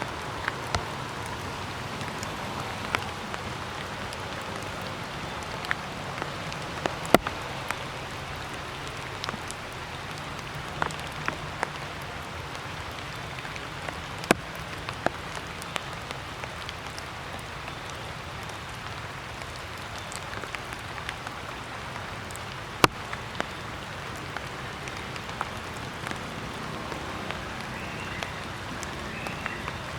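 Water dripping after rain: a steady hiss with scattered sharp drop taps, the loudest about 7, 14 and 23 seconds in.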